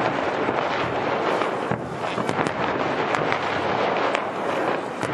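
Fireworks going off: a dense, continuous crackle with many sharp cracks and pops at irregular intervals.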